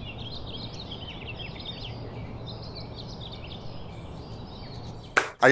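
Small birds chirping, many short calls, over a steady low outdoor background hum.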